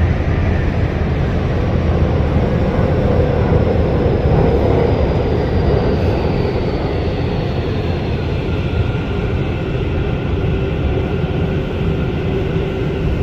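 Steady running noise inside a moving commuter train car: a constant low rumble of wheels on the track, with a faint high whine that slowly falls in pitch around the middle.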